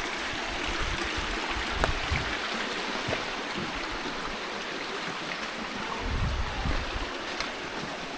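Cold stream water rushing and trickling steadily, with a short low buffet of wind on the microphone about six seconds in.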